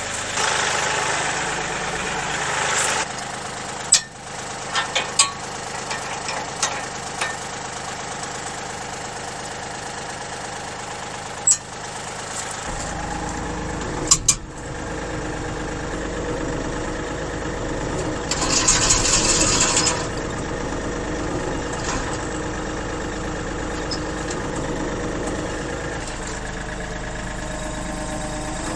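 Kioti CK3510 compact tractor's three-cylinder diesel idling steadily, its note getting deeper and fuller about halfway through. Several sharp knocks are heard over it, and there is a short hiss about two-thirds of the way through.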